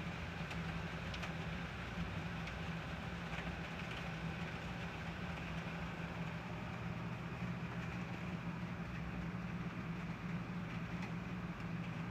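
Steady rain during a thunderstorm, an even hiss with a few faint ticks, over a low steady hum.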